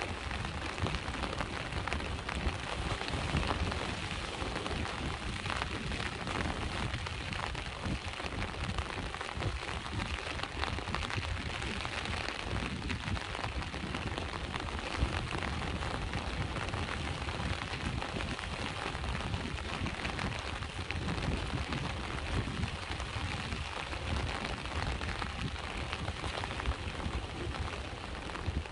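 Steady rain falling, with sea waves washing in under it as a low, continuous rumble.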